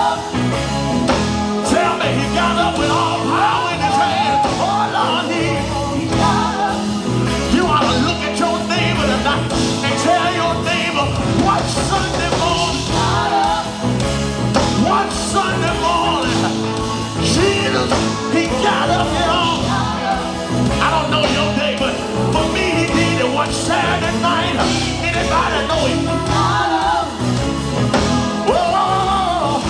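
Gospel quartet singing live, backed by a band of electric guitar, bass and keyboard, in a driving uptempo number.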